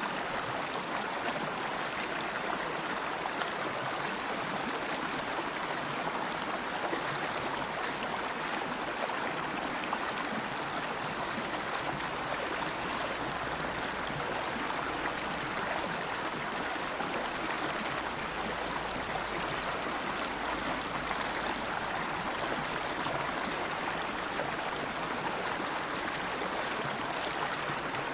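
River water flowing, a steady rushing and gurgling.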